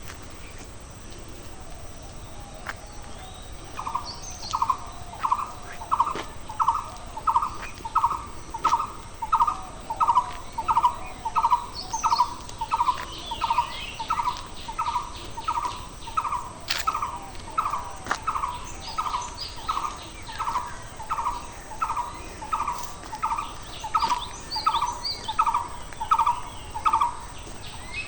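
A bird repeating one short, clear note at a steady pace, about one and a half times a second, for over twenty seconds, starting about four seconds in and stopping near the end. Fainter, higher chirps of other birds sound in the background.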